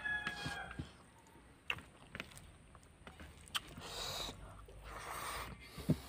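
Soft eating sounds of a person eating rice and fish with their hand: scattered wet mouth clicks and chewing, with fingers squishing through the rice.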